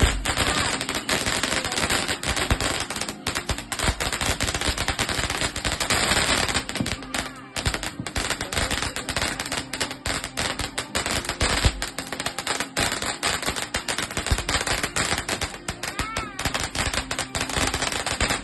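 Fireworks going off in a rapid, continuous barrage of crackling cracks and bangs, like machine-gun fire, with a short whistle near the end.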